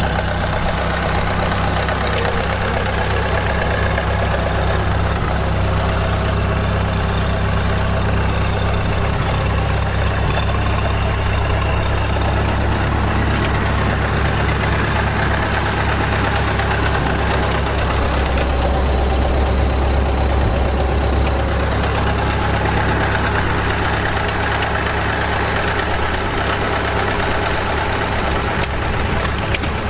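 An antique engine running steadily at a constant speed, with a deep, even, fast exhaust beat.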